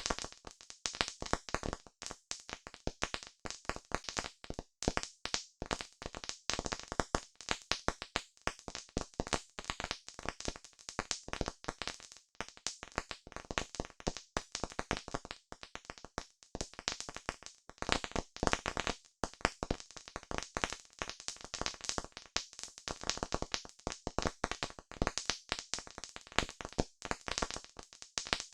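Campfire crackling: dense, irregular pops and snaps of burning wood, continuous with no pauses.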